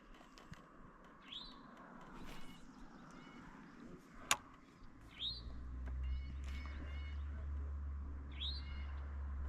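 A bird calling several times, each call a quick upward sweep followed by a few short notes. A sharp click about four seconds in, and a steady low rumble from about halfway on.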